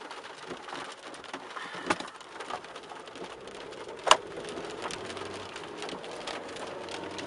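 Rain striking the car's body and glass in irregular sharp taps, with one louder hit about four seconds in and another near two seconds. A faint low steady hum comes in during the second half.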